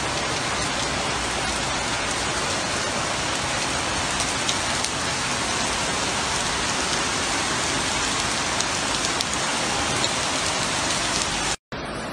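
Heavy rain falling, a steady even hiss that cuts off abruptly near the end.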